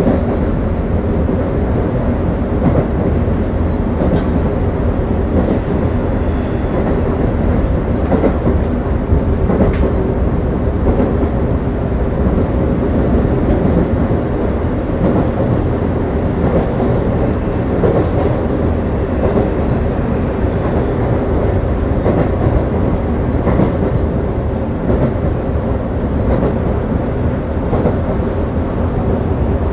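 Keio 9000 series electric train in motion: steady running noise of wheels on rails and traction equipment, holding at an even level.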